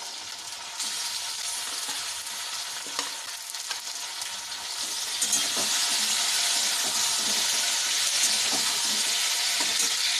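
Marinated chicken pieces sizzling as they fry in hot oil in a pan. They are stirred, with short knocks of the spatula against the pan, and the sizzle gets louder about five seconds in.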